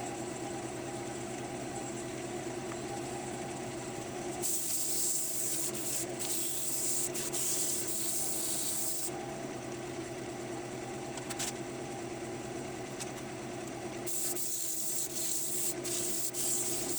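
Wood lathe running with a steady hum while abrasive is pressed against the spinning maple bowl twice, each time for a few seconds, giving a loud even hiss.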